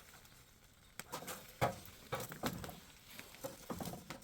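A few light, separate knocks and crackles as food is set on the coals of a wood fire.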